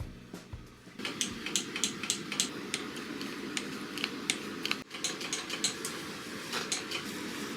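Motorcycle front brake lever being pumped repeatedly to bleed air out of the hydraulic brake, a quick run of light metallic clicks, about three or four a second, over a steady low hum.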